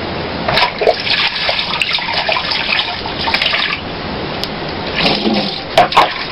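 Running water splashing steadily as a whole milkfish is washed, with a few short knocks from handling, loudest near the end.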